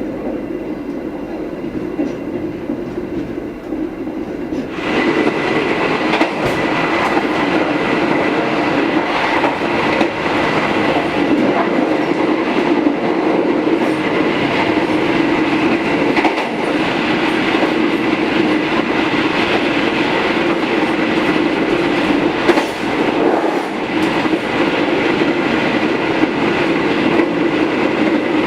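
Passenger train running on the rails, with a steady rumble of wheels and carriage. About five seconds in, the noise becomes suddenly louder and brighter and stays that way.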